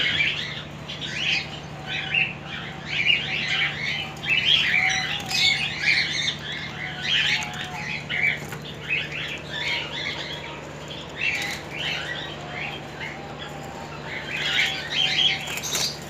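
Many small cage birds chirping: short, high chirps that overlap throughout, over a steady low hum.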